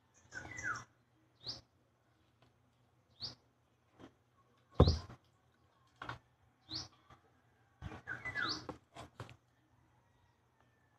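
A small bird chirping repeatedly, with short rising chirps every second or two and a two-note falling call twice. A single loud thump comes about five seconds in.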